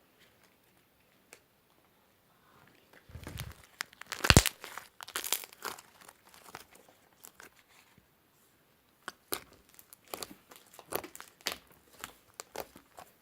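Slime being squeezed and stretched by hand, crackling and popping in two bouts: one starting about three seconds in with a loud pop, and another after a short pause.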